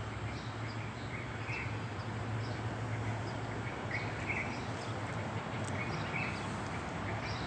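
Small birds chirping: short, scattered chirps repeated throughout. Underneath is a steady low hum.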